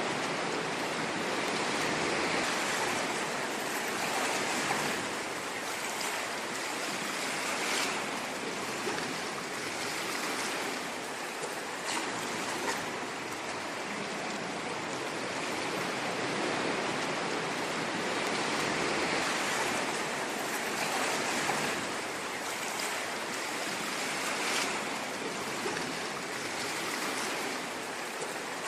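Ocean waves washing onto a shore, a steady rush of surf swelling and easing every few seconds, with small splashes.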